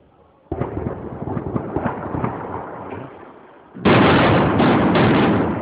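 Aerial fireworks exploding: about half a second in a rapid run of bangs and crackle begins, and near the end a louder volley of many shell bursts at once.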